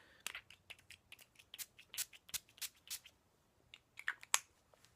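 A quick series of small, sharp clicks and crinkles from handling and opening a small skincare sample, with a few more clicks a second later.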